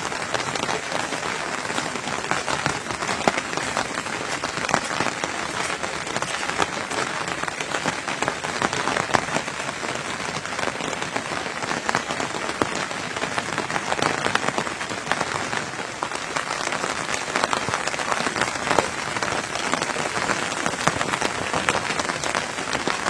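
Rain falling steadily, a dense patter of many drops.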